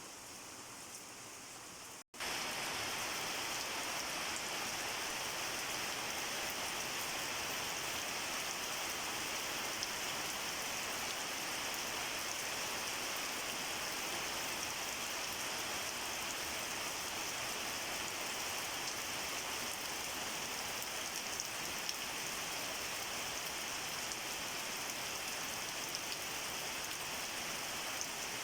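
Steady rain falling, an even hiss with scattered drops hitting a surface. After a momentary gap about two seconds in, it comes back louder and stays steady.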